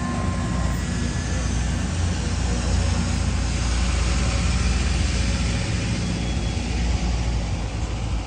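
Ice cream truck driving past with a low engine rumble and road noise that swell and then ease off. Its chime music cuts out within the first second.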